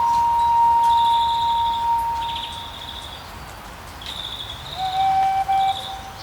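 An indigenous flute holds one long steady note that fades away about halfway through, and a lower note comes in near the end. Birds chirp in short, high trills several times over it.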